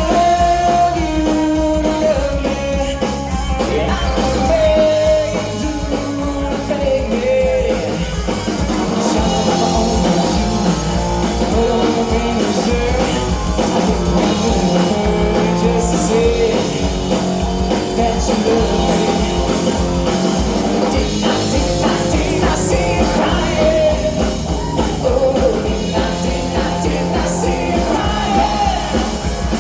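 Live rock band playing a song: a singer over electric guitar, bass and drums with a steady beat.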